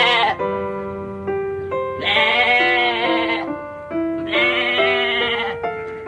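Two long, quavering bleats from a sheep or goat, each lasting a little over a second, with the end of another at the start, heard over background piano music.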